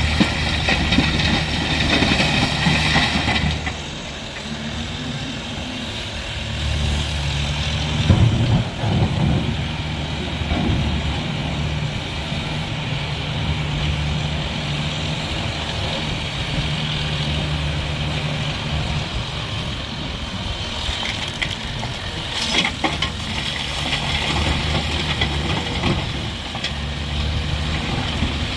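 Heavy diesel earthmoving machine's engine running at a steady pitch, its note rising and falling with load. There is a loud knock about eight seconds in and a few metallic clatters near the end.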